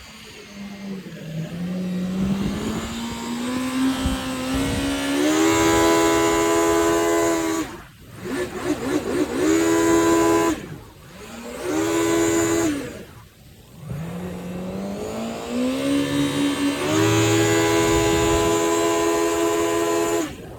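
Yamaha 1100 jet ski's two-stroke engine revved up four times. Each time it climbs in pitch, holds high for a second or two, then drops off sharply, with the last climb near the end.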